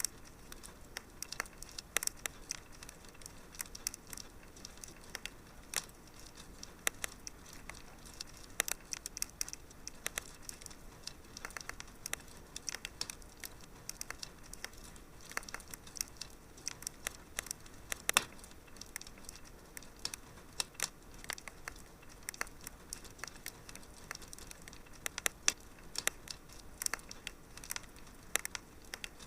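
Wood fire crackling in a fireplace: a steady low hiss with irregular sharp pops and snaps, a few louder ones standing out.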